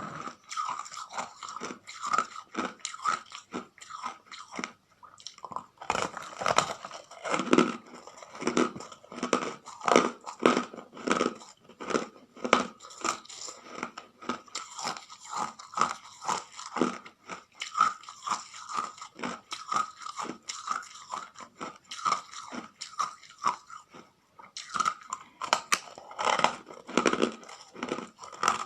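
Ice being bitten and chewed close to the microphone: rapid, repeated crunching and cracking, several crunches a second, heavier bursts of crunching now and then.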